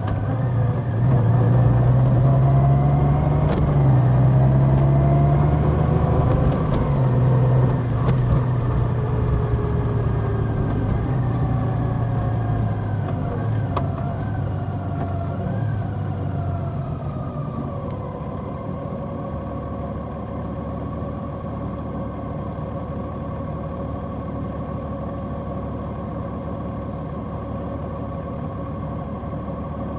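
Large motorcycle engine running at changing speed as the bike is ridden, easing down about two-thirds of the way through into a steady, quieter drone.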